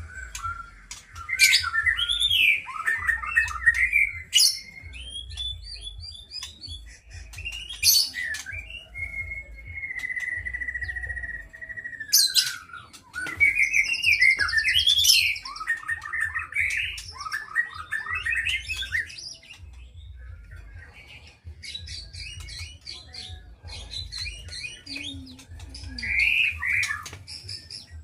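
A songbird singing a long, varied song of clear whistles, rising and falling glides and rapid trills, with short pauses between phrases.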